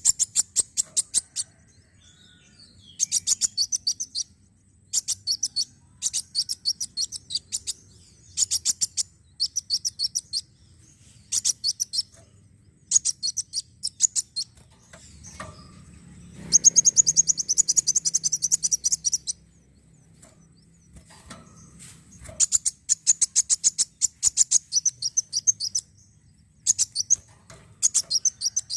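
Kolibri wulung sunbird singing: short bursts of rapid, high, ticking notes about a second long, repeated every second or two, with one longer, denser trill of about three seconds midway. It is played as a lure song to set other kept birds singing.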